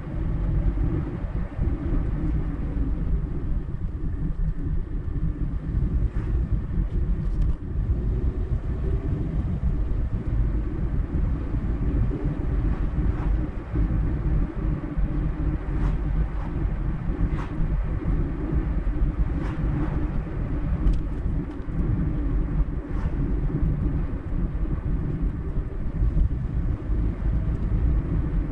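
Car driving on a road, heard from inside: a steady low rumble of tyres and engine, with a few faint irregular ticks and knocks.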